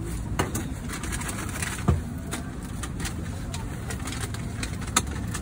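Steady low rumble of background noise with a few short sharp knocks: about half a second in, about two seconds in, and about five seconds in.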